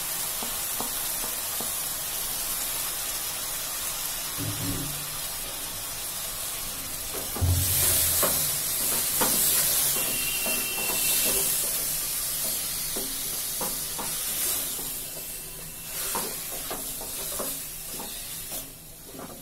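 Chicken pieces frying and sizzling in hot oil in a metal pot while a wooden spatula stirs and scrapes them, with repeated light knocks of the spatula against the pot. The sizzle grows louder about a third of the way in and fades near the end.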